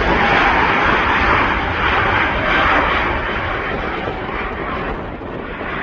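Engine noise of a passing airplane, a steady rushing roar that slowly fades away.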